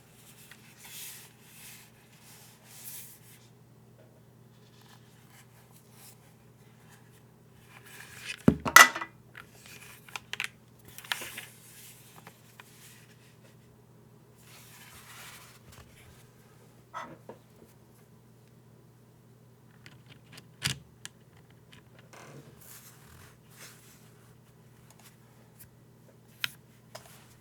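A custom mechanical keyboard being handled, with scattered clacks and scraping, rubbing sounds at irregular intervals rather than a typing rhythm. The loudest is a sharp double clack about eight and a half seconds in. A steady low hum runs underneath.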